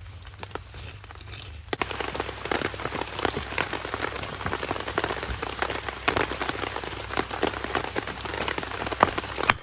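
Rain pattering on a DD tarp overhead, a dense patter of many small drops, louder from about two seconds in.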